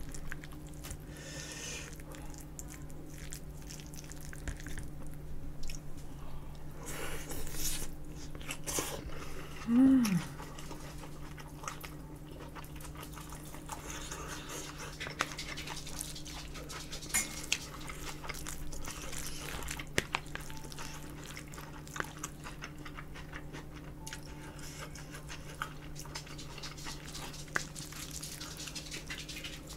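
Close-miked eating: chewing and biting, with scattered short clicks of chopsticks against a ceramic bowl over a steady low hum. About ten seconds in there is a brief falling hum of the voice, the loudest moment.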